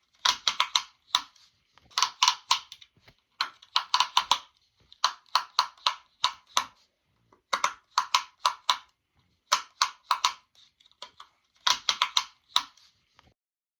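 Sharp popping clicks in quick clusters of three to six, a cluster about every second and a half, stopping shortly before the end.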